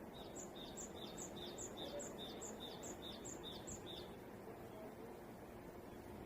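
A songbird singing one two-note phrase, a high note then a lower one, about ten times in quick even succession, stopping about four seconds in, over a faint steady background hum.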